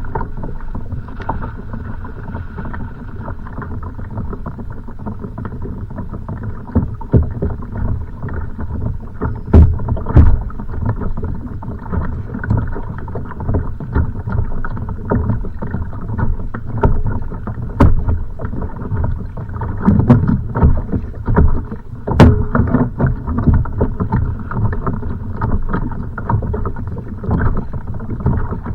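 Choppy waves slapping against a kayak's hull, with irregular knocks and thumps on the boat, in strong wind.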